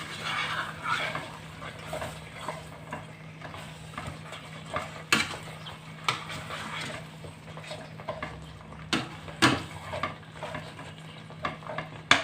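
A spoon stirring a pot of chicken and potato curry: soft scraping through the food with several sharp knocks of the spoon against the pot, over a low sizzle of the cooking.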